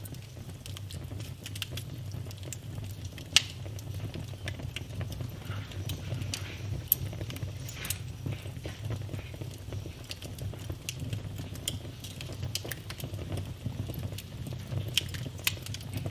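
Wood fire in a fireplace crackling: irregular sharp pops and snaps over a low steady rumble, with the loudest pop about three seconds in.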